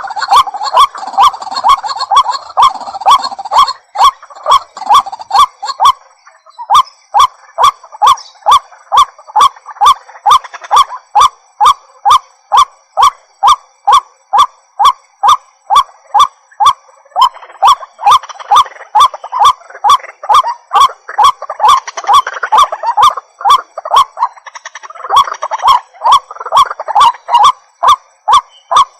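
White-breasted waterhen calling: a long, steady run of repeated croaking notes, about two to three a second. The calls are denser and overlap at the start and again in the middle and near the end, with a brief pause about six seconds in.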